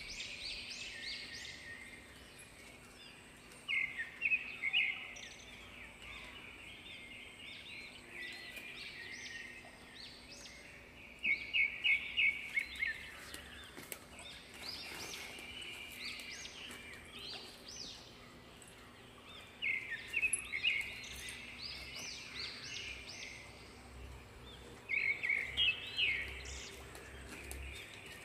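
Birds chirping in the background, with one bird's louder phrase of quick, high repeated notes coming four times, roughly every seven or eight seconds.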